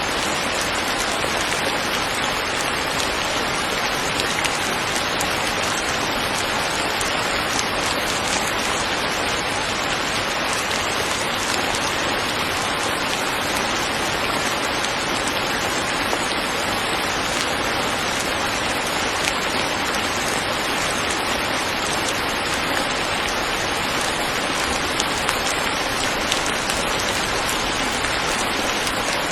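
Steady rain falling, an even, unbroken hiss of drops on surfaces at a constant level.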